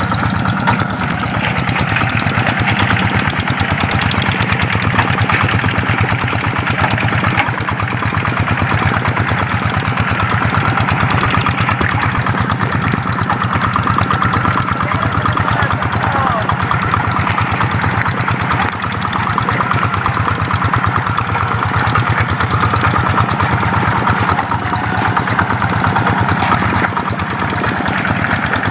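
Paddy-field tractor's diesel engine running steadily under load, with a rapid, even chugging of firing strokes.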